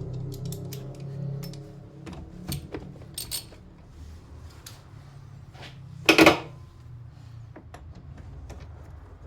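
Small metallic clicks and clinks of hand tools working on a car battery terminal clamp, with one louder clatter about six seconds in.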